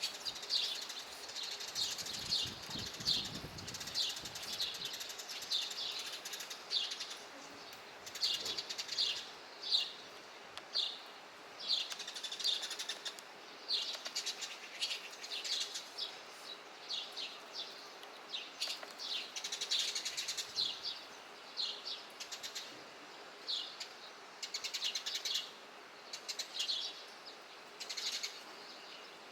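Eurasian tree sparrows chirping, short sharp chirps coming in quick clusters of several at a time with brief gaps between.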